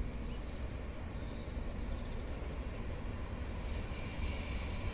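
Distant train approaching behind an electric locomotive: a low rumble that grows slightly louder near the end, over a steady hiss.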